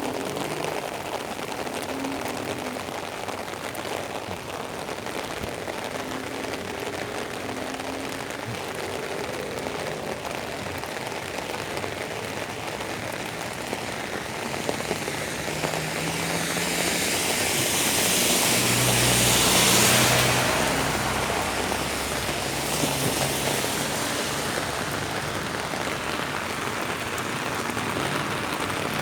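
Steady rain falling on a city street. A vehicle passes on the wet road just past the middle, its tyre hiss and engine swelling to a peak and then fading away.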